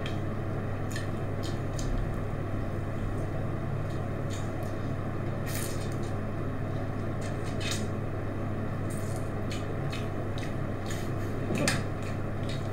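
Close-up eating sounds of telur gulung, rolled egg on bamboo skewers, being bitten off and chewed: scattered soft clicks and mouth smacks over a steady low hum, with a slightly louder clack near the end.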